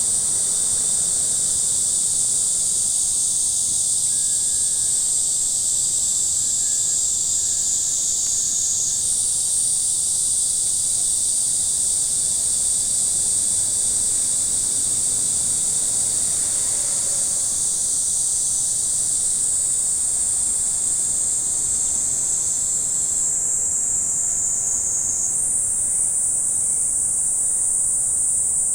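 Steady, high-pitched chorus of insects singing without pause, its pitch stepping up suddenly about nine seconds in and again near the end as individual singers join or drop out.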